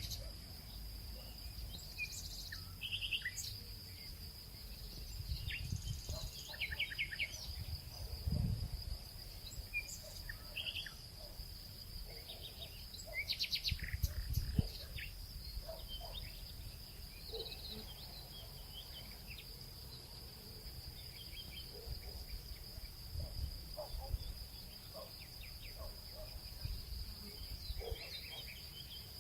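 Nature ambience: a steady high insect trill, typical of crickets, with scattered short bird chirps over a low rumble that swells now and then.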